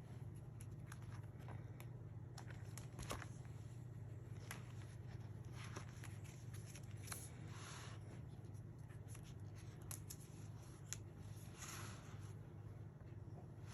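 Scrapbook album pages being handled and turned: faint paper rustling with scattered light ticks and taps, and a few soft swishes, over a steady low hum.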